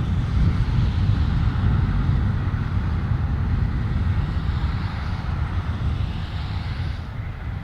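Jet engines of a four-engined Airbus A340 airliner landing, heard as a steady loud rumble that eases slightly near the end, with wind rumbling on the microphone.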